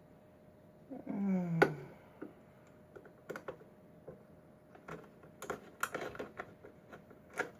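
Small sharp clicks and taps of a Schlage pin-tumbler lock and tools being handled, scattered irregularly. About a second in there is a short sound that falls in pitch, then one sharp click, the loudest point.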